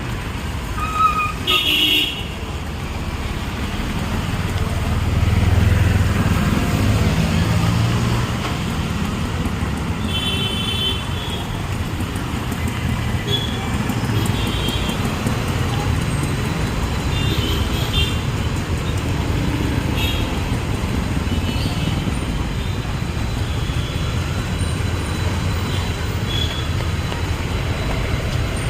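City street traffic: vehicle engines rumbling past, one louder vehicle passing about five to eight seconds in, with several short horn honks scattered through.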